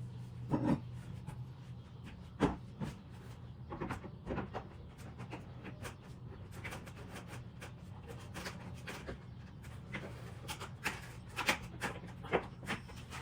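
Scattered light knocks and clicks, irregular and a few per second at most, over a steady low hum.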